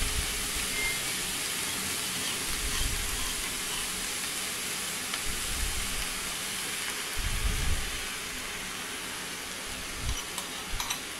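Vegetable and crushed-coconut mixture frying in an oiled non-stick kadai, giving a steady sizzle, with a few low bumps about seven seconds in while beaten egg is poured over it.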